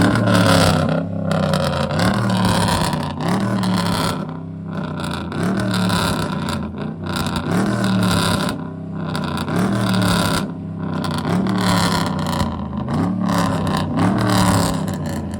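Lifted pickup truck's engine revved over and over, the pitch climbing and dropping about once a second, loud.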